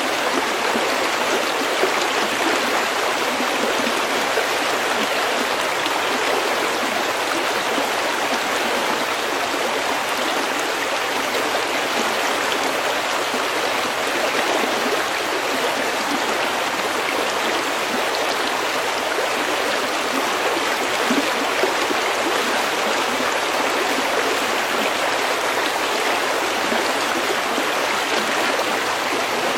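Shallow stream running over pebbles, a steady, even rush of flowing water.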